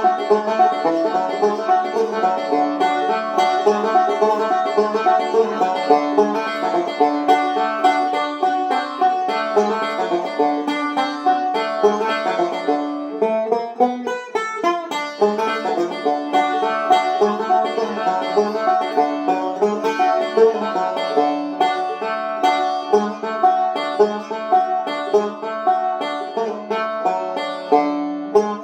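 1970s Gibson RB-250 five-string resonator banjo played solo, fast three-finger bluegrass picking in a steady stream of bright notes. About halfway through, several notes glide in pitch before the rolls resume.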